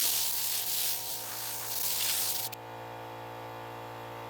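Hand sanding across a finished tabletop: sandpaper rasping over the finish in strokes. It stops abruptly about two and a half seconds in, leaving a steady low hum.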